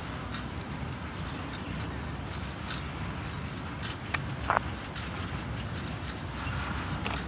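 Freight train tank wagons rolling slowly past, their wheels clicking and clacking over the rails, with a short squeal about four and a half seconds in.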